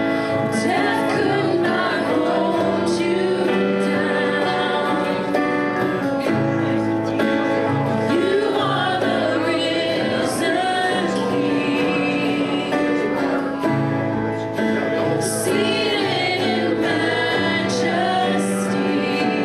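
Christian worship song: voices singing over sustained instrumental accompaniment with a moving bass line and occasional cymbal strokes.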